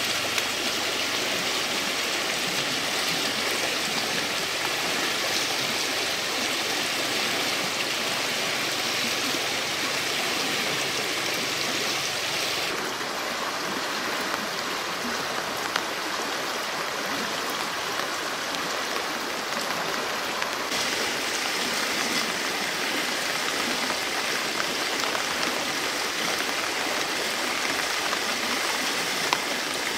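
Steady noise of running or falling water, with a few faint ticks; its tone changes abruptly about 13 seconds in and again about 21 seconds in.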